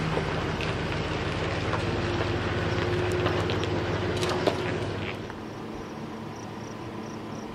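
A motor vehicle's engine running steadily with scattered knocks and rattles, dropping to a quieter level about five seconds in.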